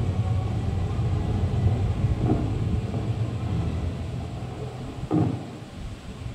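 Aerial fireworks shells booming in a dense low rumble that slowly grows fainter, with one sharper bang about five seconds in.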